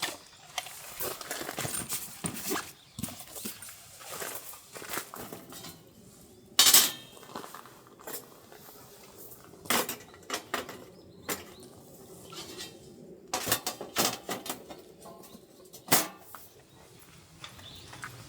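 Irregular clinks, knocks and rustling of objects being handled, much like camp tableware or gear being set down and moved. A few sharper knocks stand out, the loudest about seven and sixteen seconds in.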